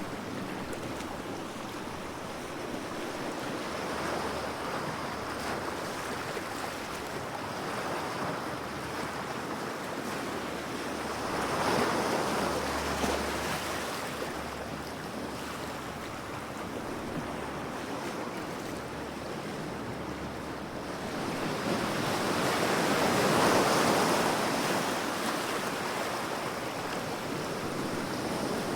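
Ocean surf: a continuous wash of waves breaking and running up the shore, swelling with a bigger wave about twelve seconds in and a louder one a little past two-thirds of the way through.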